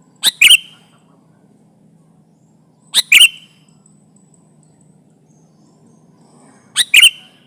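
Sooty-headed bulbul calling: three loud, short calls, each of two quick notes, spaced about three to four seconds apart.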